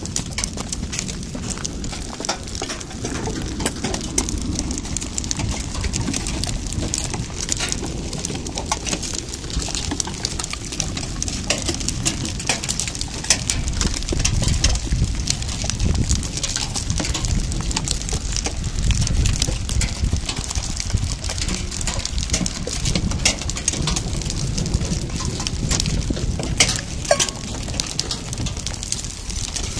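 Rain mixed with small hailstones pattering steadily, full of fine sharp ticks of ice striking, over a low uneven rumble.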